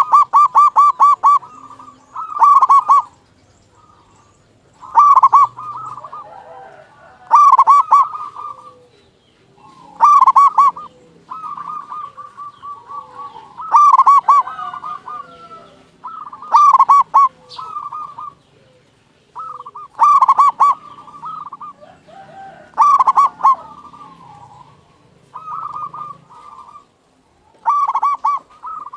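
Local zebra dove (perkutut) singing: phrases of rapid staccato cooing notes, each about a second long, repeated every two and a half to three seconds.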